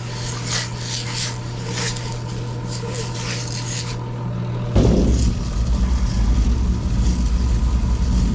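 Pigeon grit scraping and rasping inside a rock tumbler barrel as it is shaken by hand, in repeated strokes over a steady low hum. About five seconds in, the scraping stops and a louder, steady low rumble takes over.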